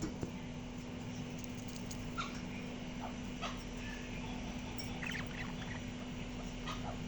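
Small pet parrot making short, soft chirps and squeaks, scattered about once a second, with a quick cluster of them about five seconds in, over a steady low hum.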